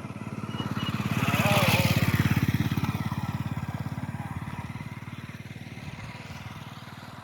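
A motor vehicle engine passing by with a fast, even pulse, growing louder to a peak about two seconds in, then slowly fading away.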